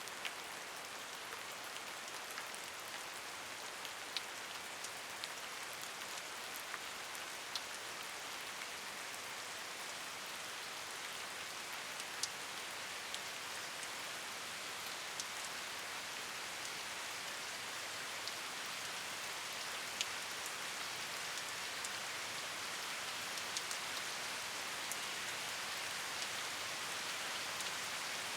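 Steady rain: an even hiss of falling rain with the sharp ticks of individual drops landing here and there, growing slightly louder toward the end.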